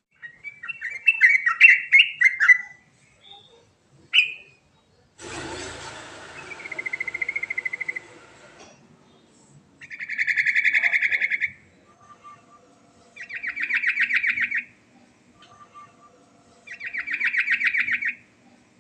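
Yellow-vented bulbul (trucukan) singing: a varied chattering phrase, then a brief rushing noise and a held note, followed by three rapid buzzy trills about three seconds apart.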